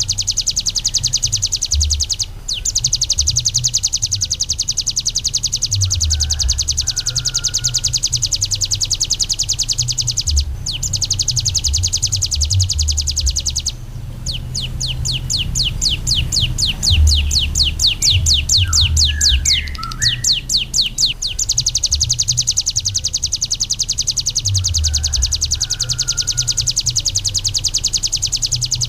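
Songbird masteran recording of the kapas tembak's long, rough 'tembak' song: a very fast, high rattling trill of evenly repeated notes that runs on with a few brief breaks. For several seconds in the middle it slows into separate downward-sweeping strokes, and a few short lower chirps from other small birds come in now and then. An uneven low rumble runs underneath.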